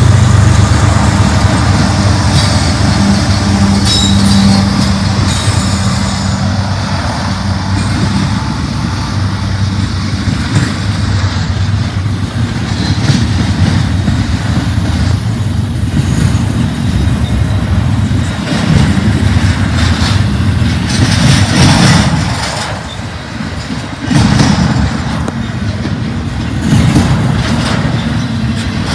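A freight train passing: diesel locomotives with a steady low engine drone, giving way to the rumble and clatter of freight cars rolling over the rails.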